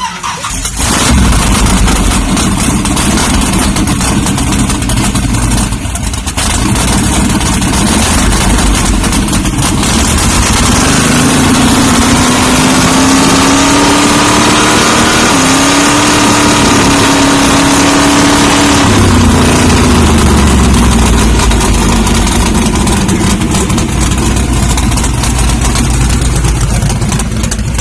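Truck engine running loudly at idle. Its note rises about eleven seconds in, holds, and falls back near twenty seconds.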